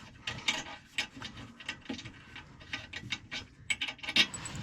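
Light, irregular metallic clicks and ticks of hand-tool work as a part is being taken off, with a quick cluster of clicks near the end.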